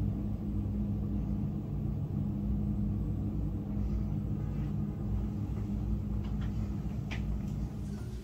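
Steady low rumble of distant city traffic, with a constant low hum running under it and a faint tick about seven seconds in.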